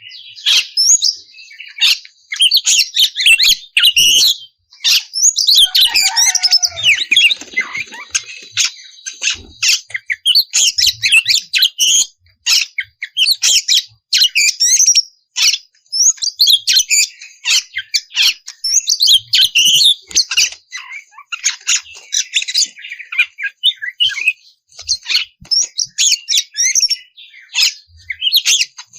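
Oriental magpie-robin (kacer) in full, unbroken song ('gacor'): a rapid run of varied whistles, trills and harsh chattering notes with only brief pauses.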